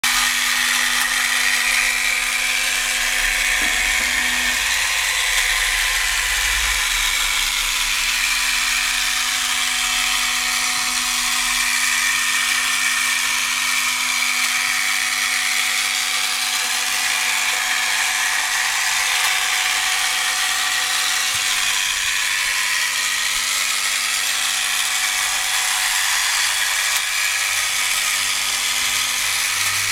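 Gakken tabletop vacuum cleaner kit running: its small electric motor and gear train whir steadily with a constant hiss, the machine steered only by gears and springs.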